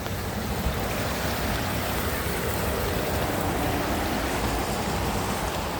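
Floodwater rushing steadily down a storm drain in a whirlpool, a constant watery rush with a heavy low rumble: the drain is now flowing freely.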